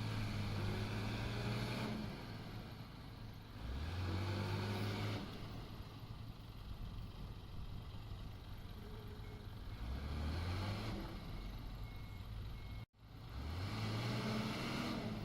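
Diesel engine of a Komatsu D21 bulldozer working, revving up four times in surges that rise in pitch and hold for a second or two each, falling back to a lower run between them. The sound cuts out abruptly for an instant near the end.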